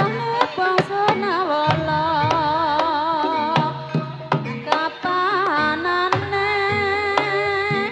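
Banyumasan ebeg music: a sinden sings long held notes with a wide vibrato, over regular kendang drum strokes and a sustained gamelan accompaniment.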